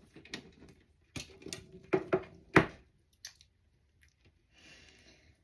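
Several sharp knocks and clicks of objects being handled and set down, the loudest about two and a half seconds in, with a faint breathy sound near the end.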